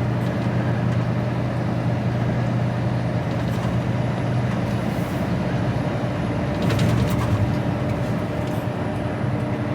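Cab interior of an HGV lorry on the road: the diesel engine drones steadily under constant road and wind noise, with a short cluster of clicks about seven seconds in.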